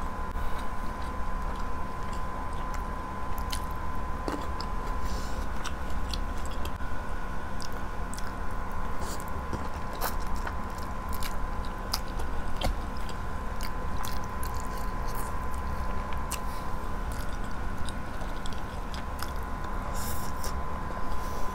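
Close-miked eating sounds: a person biting and chewing grilled chicken by hand, with many short wet mouth clicks and smacks, over a steady faint hum.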